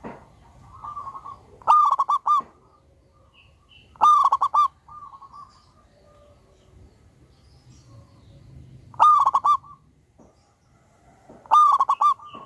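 Zebra dove (perkutut) singing its loud cooing song: four bursts of quick, staccato coos, with softer cooing between them.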